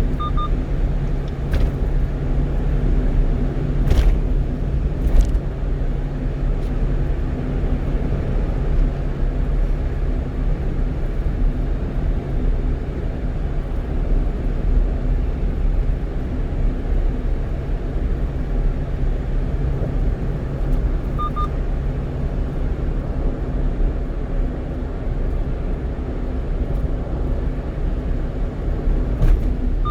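A 1-ton truck heard from its cab while driving: a steady drone of engine and tyre-on-road rumble. A short double electronic beep sounds just after the start and again about two-thirds of the way through.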